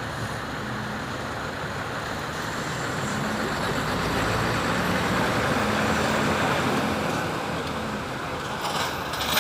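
Road traffic noise on a highway: tyres and engines making a steady rushing sound with a faint low hum. It grows louder toward the middle, as if a vehicle is passing, and eases off near the end.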